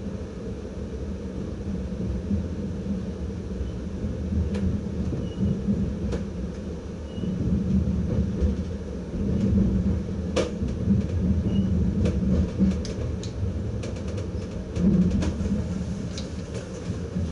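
Inside the cab of an NS ICM (Koploper) electric multiple unit under way: a steady low running rumble. From about four seconds in, sharp clicks and knocks come as the wheels cross points and rail joints, more often in the second half.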